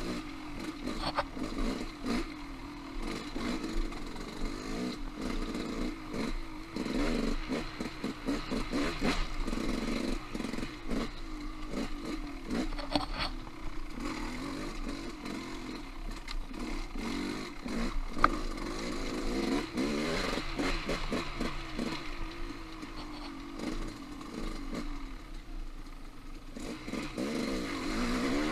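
Off-road motorcycle engine running as it is ridden over singletrack, its pitch rising and falling with the throttle, with frequent clattering knocks from the bike over rough, rocky ground and one sharp knock about two-thirds of the way through.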